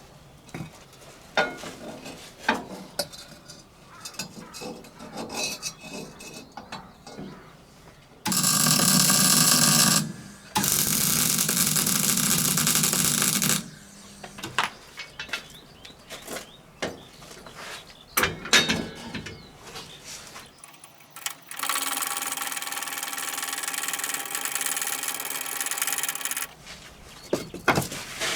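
Workshop work: scattered knocks and clicks of tools and parts being handled, with a power tool running in bursts: twice in quick succession about eight seconds in, and again for about five seconds a little past the twenty-second mark.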